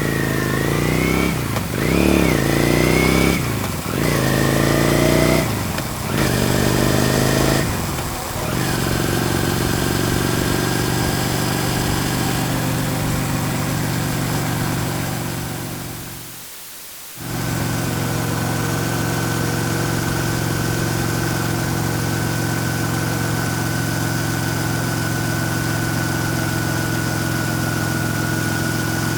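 Motorcycle engine accelerating through the gears, its pitch climbing and dropping about four times, then running steadily before fading out about sixteen seconds in. After a short gap a second motorcycle recording begins, with the engine running at a steady pitch.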